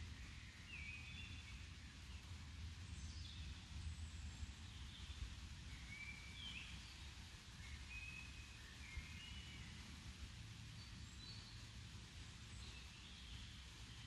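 Faint outdoor ambience: scattered songbird calls, short chirps and whistles, some sliding up or down in pitch, over a steady low rumble.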